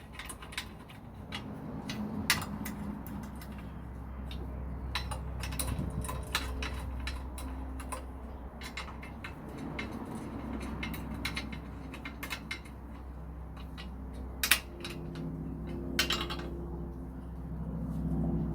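Irregular metallic clinks and knocks of hand tools and metal parts being handled, over a low steady hum.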